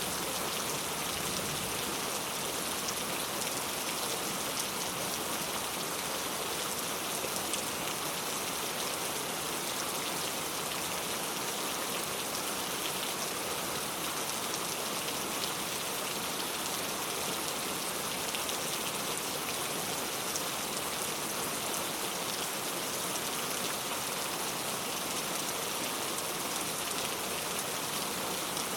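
Heavy rain falling steadily, a dense even hiss of drops on hard surfaces with fine individual drop ticks.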